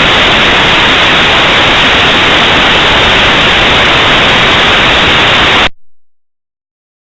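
Loud, steady static hiss with no pattern in it, cutting off abruptly into dead silence near the end.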